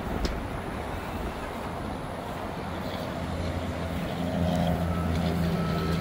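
A Ford F-550 work truck's 6.7 L Power Stroke diesel running with the PTO engaged to drive the boom hydraulics, with wind on the microphone. About three seconds in, a steady low hum from the engine and hydraulic pump comes up and grows louder as the boom is worked.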